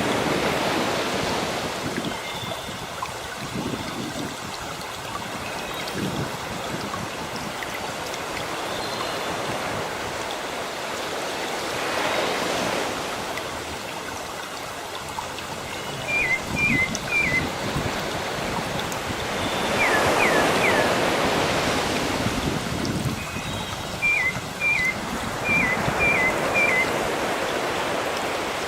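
Sea waves washing on a shore, swelling and easing every several seconds, with small birds chirping in short repeated notes through the second half.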